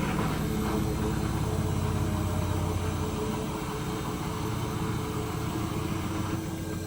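Hoover H-Wash 300 Plus washing machine running, its drum motor giving a steady low hum with a faint swishing of the drum and water over it.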